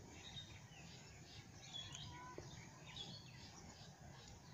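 Faint birds chirping now and then over low background noise.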